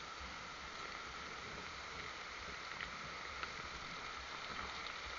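Steady storm noise of wind and rain, an even hiss with a few faint ticks.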